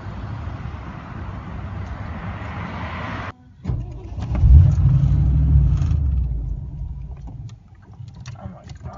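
A car's engine: a loud low rumble that starts suddenly about three and a half seconds in, is loudest about a second later and dies away about seven seconds in, following a few seconds of steady noise.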